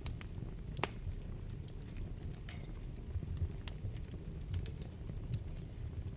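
Wood fire burning in a fireplace: a steady low rumble of the flames with scattered sharp crackles and pops of burning logs, one louder pop about a second in.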